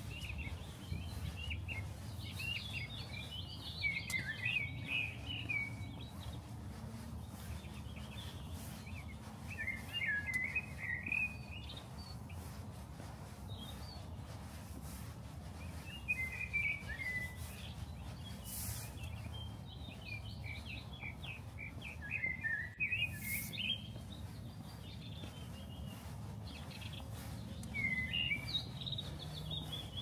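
Small songbirds chirping in short clusters every five or six seconds, over a steady low background rumble.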